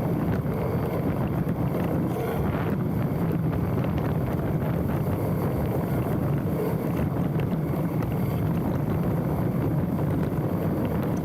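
Specialized Stumpjumper mountain bike rolling downhill on a dirt trail: steady tyre and drivetrain noise with light rattles and knocks, heard from a handlebar-mounted camera with wind buffeting the microphone.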